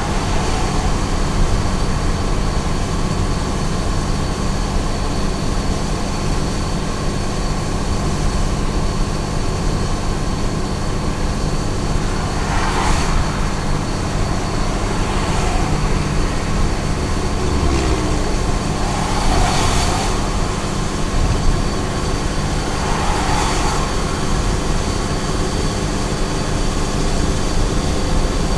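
Small truck cruising on a highway: a steady drone of engine and tyre noise, with a few brief swells of hiss in the second half, like other vehicles passing.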